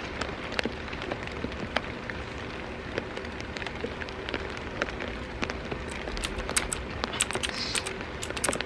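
Rain falling on a surface, a steady hiss with scattered sharp drop hits that come more often in the last few seconds.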